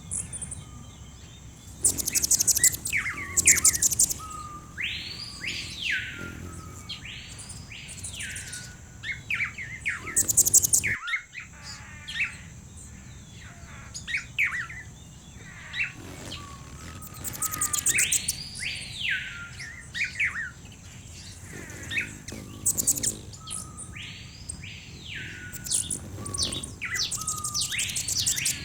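Mixed birdsong ambience: clear whistled notes that rise and fall, often in pairs, among loud high, buzzy trills and quick chips, over a steady high-pitched whine.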